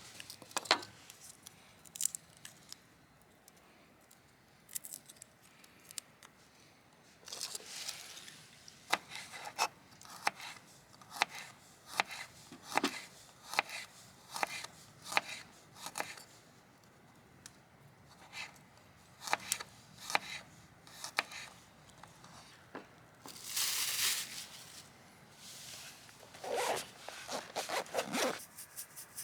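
Hands at work on camp cooking prep: irregular small snips, clicks and scrapes, with a louder rustling tear a few seconds before the end, followed by a quick run of clicks.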